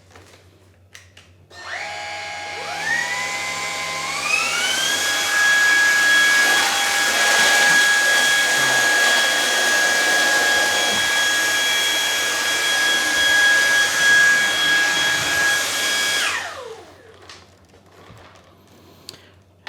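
Lupe Pure cordless stick vacuum switched on about two seconds in, its motor whine climbing in two steps as it spins up to boost mode. It runs with a steady high whine, then is switched off near the end and the whine falls away as the motor winds down.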